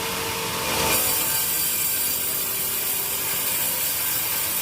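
Sawmill saw running and cutting teak wood, a steady mechanical drone with a brighter, hissing cutting sound in about the first second.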